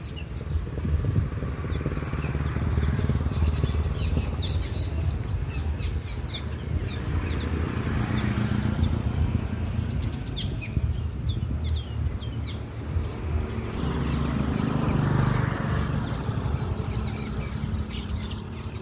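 A flock of birds chirping busily throughout, over the low rumble of passing motor vehicles that swells and fades about three times.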